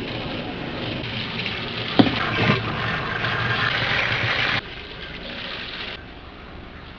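Water running in a strong stream, with a knock about two seconds in; the flow drops off sharply after about four and a half seconds, leaving a fainter sound.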